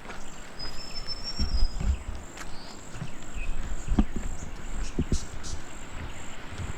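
Insects chirping in a steady high pulse, about three times a second, with a short bird whistle about a second in and a few low knocks.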